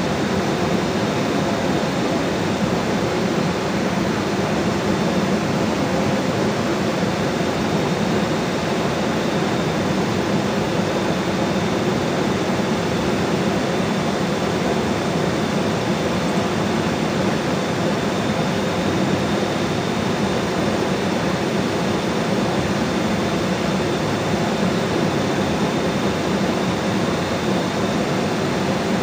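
Steady, even wash of water noise from heavy rain and river water, holding one level throughout, with a faint steady high-pitched tone above it.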